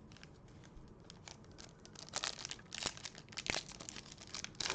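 Trading-card pack wrapper crinkling and tearing as it is opened, with light card handling. A few faint clicks come first, then crinkly rustling from about two seconds in.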